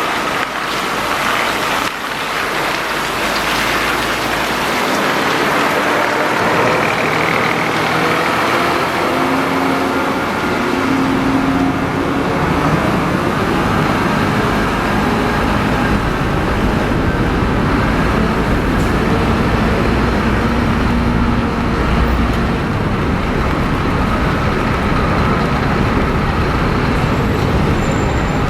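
Heavy bus diesel engine running amid steady road traffic noise, its engine note shifting in pitch a few times as it changes speed.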